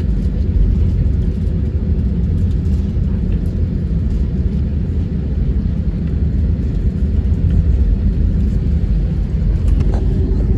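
Steady low rumble inside an Airbus A320 cabin, the engines running as the airliner moves on the ground before takeoff. A few faint clicks near the end.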